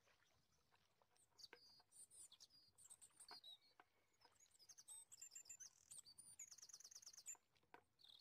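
Faint songbird singing: a string of varied high chirps and whistles beginning about a second in, with a fast rapid trill near the end.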